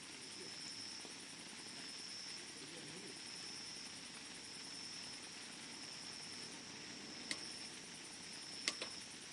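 Wood campfire burning with a low steady rustle and a few sharp crackles from the wood: one about seven seconds in and two close together near the end.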